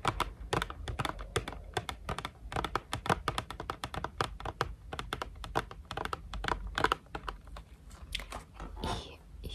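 ASMR hand sounds close to the microphone: a quick, irregular run of soft clicks, taps and skin rustles from fingers and palms.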